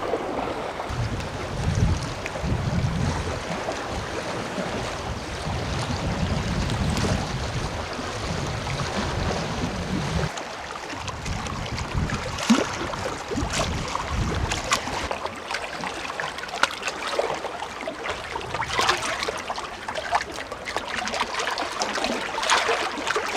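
Sea water washing and lapping against a rocky shore, with a low rumble for the first ten seconds or so, then a few small scattered clicks.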